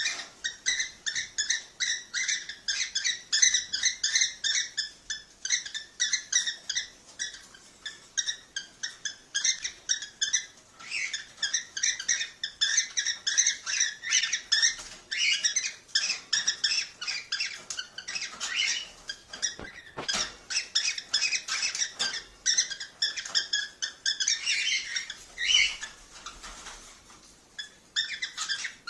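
Cockatiels chirping rapidly and without pause, a dense run of short, high calls, with a brief lull near the end.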